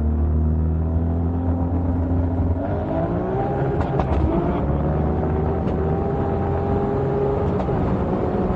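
The Supra's turbocharged 2JZ straight-six engine pulling under load while driving. Its note changes about two and a half seconds in and then climbs steadily in pitch.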